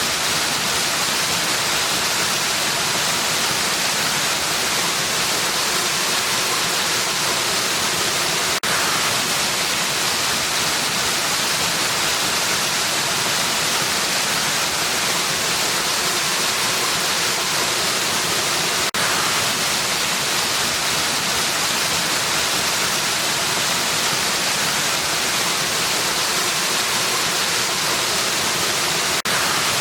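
Waterfall: a steady, hissy rush of falling water. It dips briefly about every ten seconds, three times in all.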